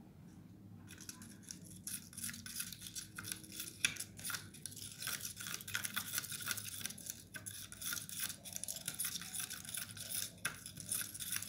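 Stirring a mix of toothpaste, water and salt in a small pot: quick, irregular scraping and clicking strokes of the utensil against the container, starting about a second in.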